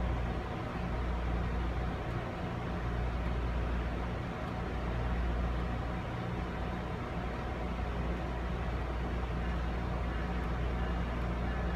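Steady rumble and hum of a passenger train heard from on board an Amtrak Amfleet coach, with no sudden events.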